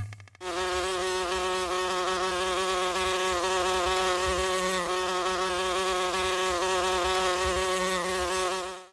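A steady, fly-like buzzing drone with a slight wobble in pitch, starting just after the music cuts off and fading out near the end.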